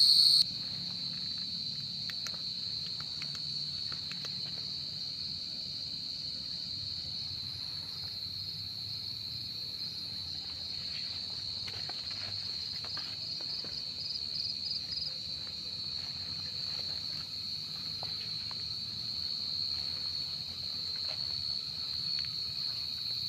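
Night chorus of crickets: a steady, high-pitched continuous trill of gangsir (large burrowing crickets) almost covers the chirping of the smaller jangkrik field crickets. The sound drops sharply in loudness about half a second in.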